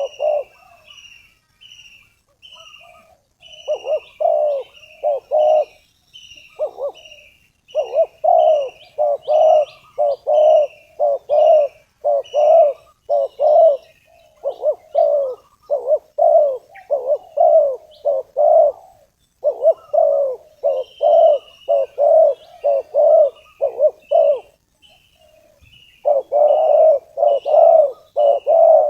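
Spotted doves cooing in long runs of repeated coos, the call of a decoy dove used to lure wild doves, broken by pauses about a second in and near the end. A fainter, higher-pitched small bird chirps about twice a second behind it.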